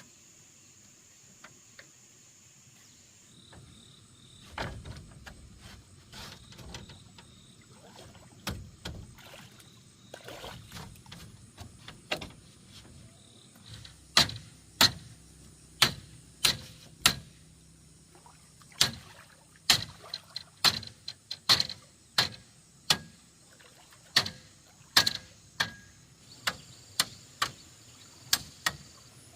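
A series of sharp knocks from hand work. A few dull thumps at first, then from about fourteen seconds in, steady strikes about one to two a second.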